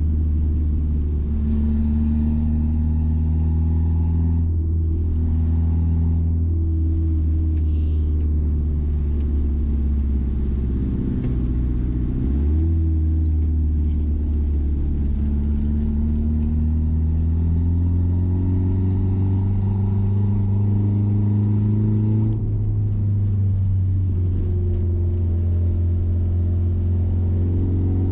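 Mazda B-series pickup's engine and loud exhaust running steadily while driving, heard from the cab. The engine note breaks and changes pitch about 11 seconds in, climbs slowly, then breaks again about 22 seconds in, as with gear shifts.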